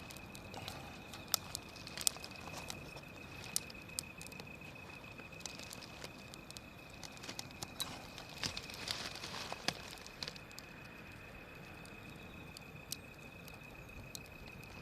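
Wood fire crackling: scattered sharp snaps and pops from the burning wood, busiest a little past halfway, over a soft hiss.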